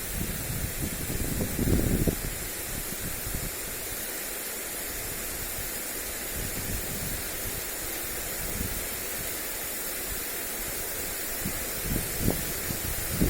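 Lawn sprinkler spraying water over grass, a steady hiss. Wind buffets the microphone with low rumbling gusts for the first two seconds and again about a second before the end.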